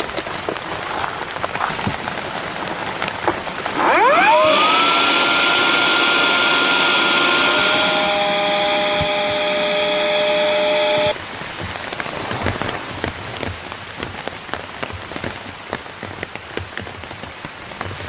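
Steady rain falling on surfaces. About four seconds in, a loud pitched tone sweeps up, holds, changes pitch around eight seconds, and cuts off suddenly around eleven seconds.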